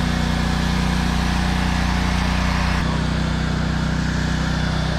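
Pressure washer's petrol engine running steadily under load, with a broad hiss over it that drops away about three seconds in while the engine note changes slightly.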